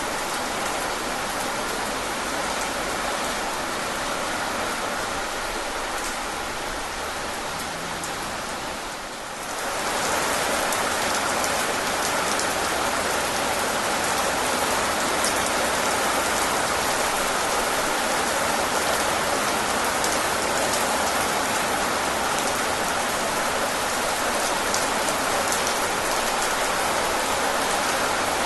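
Steady rain falling, with many fine drop patters. About a third of the way through it briefly dips in level, then comes back slightly louder and stays steady.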